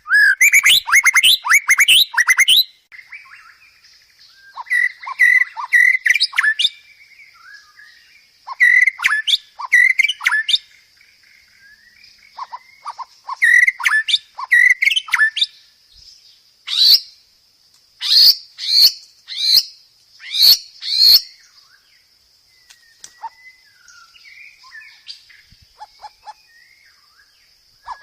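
White-rumped shama singing in loud, varied phrases of rapid whistles and chatters, each a second or two long with short pauses between; near the middle come several sharp, high whistled notes, and the last few seconds hold quieter twittering. A faint steady high-pitched hiss or drone runs underneath from a few seconds in.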